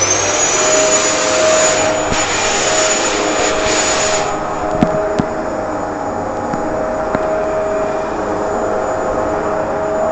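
Vacuum cleaner running, its motor whine just reaching full speed at the start and then holding steady. About four seconds in the higher hiss drops away, leaving a steadier hum and whine.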